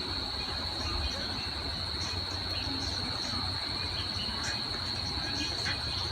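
Steady, unbroken high-pitched insect drone from the surrounding woods, with a low rumble underneath.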